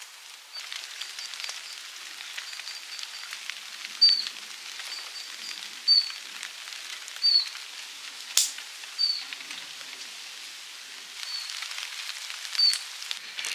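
A small bird repeating a short high chirp every second or two, over a steady fine patter of light rain. One sharp tap comes about eight seconds in.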